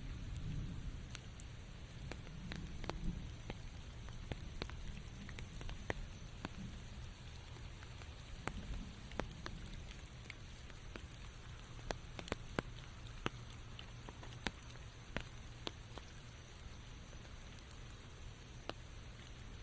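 Steady rain falling in a forest, with many separate drops ticking sharply close by at irregular moments. A low rumble at the start eases off over the first couple of seconds.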